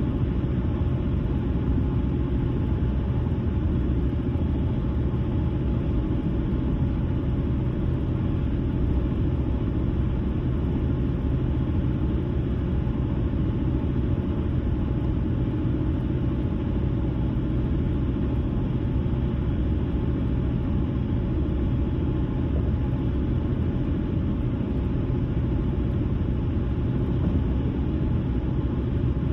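Car driving at a steady speed: a steady rumble of tyres on the road and engine noise, even and unchanging throughout.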